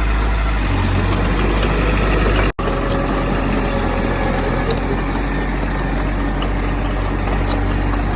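Heavy diesel earthmoving machinery running steadily with a deep low rumble, cut by a brief gap about two and a half seconds in.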